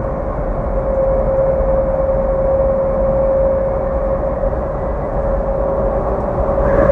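Steady vehicle running noise with a constant hum and low rumble; it swells slightly near the end, when a second, higher tone joins.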